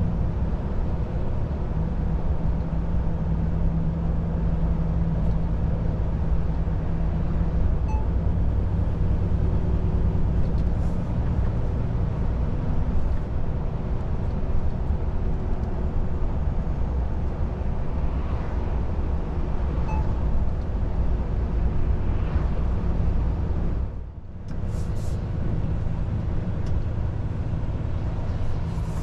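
Volvo FH 500 truck's 13-litre straight-six diesel running at cruise with tyre and road noise, a steady low drone. About 24 seconds in, the sound briefly drops away for a moment before it resumes.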